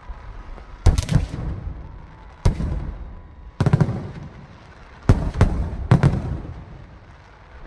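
Aerial fireworks shells bursting: sharp bangs, some in quick pairs or triples, coming every second or so, each followed by a rumbling echo that dies away.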